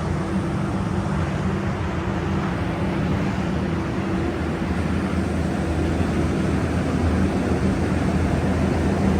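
The engine of a machine running steadily at constant speed, a low even hum with no change in pitch.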